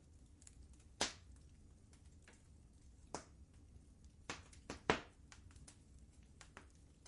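Wood fire crackling in a fireplace: irregular sharp pops of varying loudness over a low steady rumble. The loudest pop comes about a second in and a cluster of pops comes around four to five seconds.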